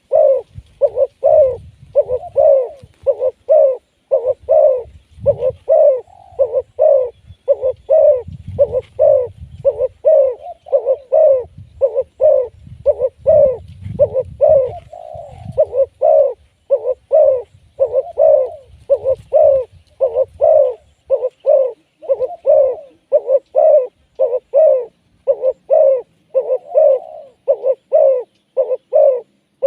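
Spotted doves cooing over and over, a steady run of short low coos about two a second. A low rumble sits underneath for the first two-thirds.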